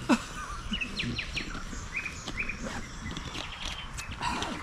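Small birds chirping: many short, quick high notes, some in pairs, throughout. Right at the start there is one brief, louder note that falls quickly in pitch.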